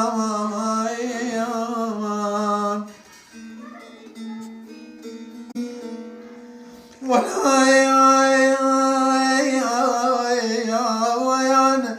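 A singer holds long, ornamented notes in the Iraqi Mohammadawi singing style. About three seconds in the voice drops out for a few seconds of quieter plucked-string playing, then returns loud about seven seconds in.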